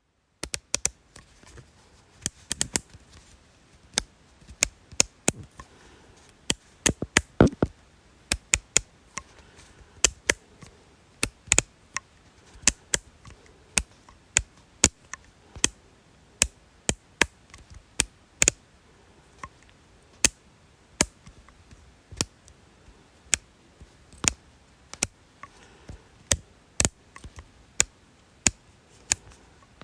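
A series of sharp, dry clicks at an uneven pace, roughly two a second, sometimes in quick clusters, starting about half a second in.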